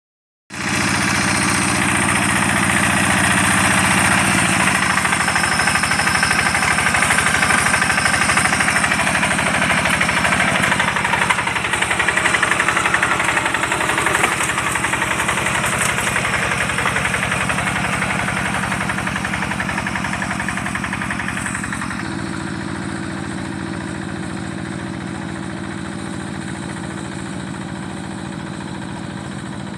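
Rice-field tractor engine running steadily with an even, rapid beat. About twenty seconds in, its higher-pitched sound drops away and it runs a little quieter.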